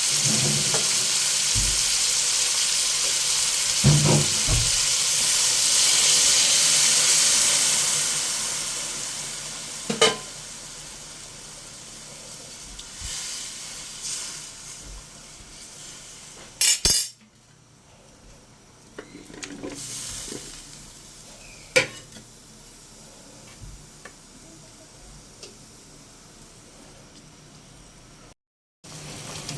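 Food sizzling in a cooking pot, loud for the first several seconds and then dying down to a low hiss. A metal utensil knocks against the pot a few times.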